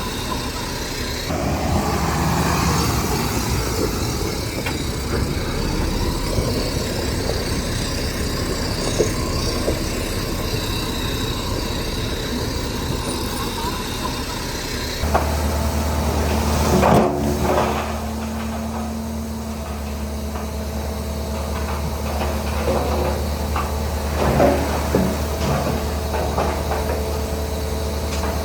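Diesel engine of heavy earthmoving machinery running steadily under work. About halfway through it gives way abruptly to a deeper, steady engine hum, with clusters of metallic clanks and knocks shortly after and again near the end.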